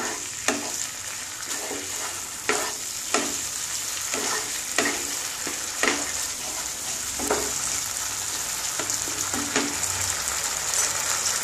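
Yogurt and nut-paste masala sizzling in a non-stick wok over a medium gas flame while a wooden spatula stirs and scrapes it. The spatula strokes come about once a second and thin out near the end, while the sizzle carries on steadily.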